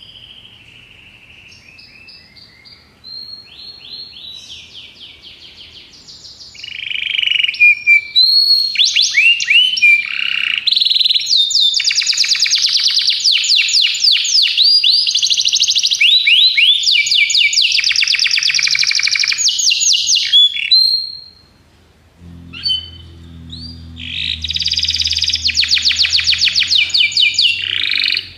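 Domestic canary singing a long song of rapid trills and rolls. It starts soft, turns loud about six seconds in, breaks off briefly about three-quarters through, then resumes with fast trills.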